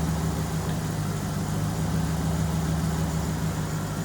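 Jeep Grand Cherokee's 5.2-litre V8 with a 3-inch exhaust idling steadily, left running to charge another car's dead battery.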